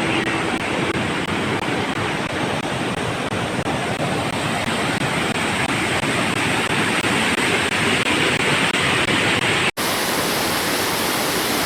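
Waterfall: the steady rush of falling water, with a split-second break about two seconds before the end.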